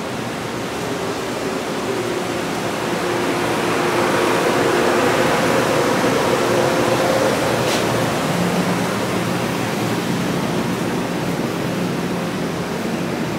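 NJ Transit Arrow III electric multiple-unit train heard at close range, its onboard equipment giving a steady rushing noise with a faint hum. The noise swells a little around the middle, and the hum drops to a lower pitch about eight seconds in.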